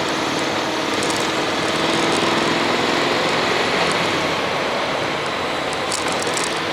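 Honda X-ADV's parallel-twin engine running at a steady cruise, mostly buried under heavy wind and road noise on the helmet or action camera's microphone.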